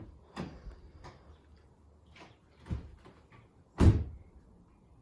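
A car door being handled: several clicks and knocks, then a louder door shut about four seconds in, just before the engine is started.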